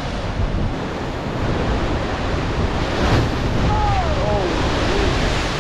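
Ocean surf breaking and surging among coastal rocks, with one louder wave surge about three seconds in. Wind buffets the microphone.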